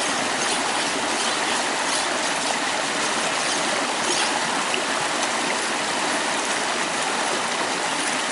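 Steady rushing noise like flowing stream water, with a few faint light scrapes of a machete blade being honed on a wet stone.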